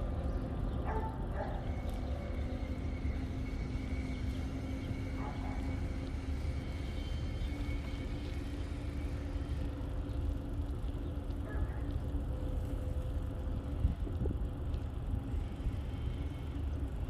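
Steady low rumble of wind and motion on a camera microphone during a bicycle ride, with a constant hum running underneath.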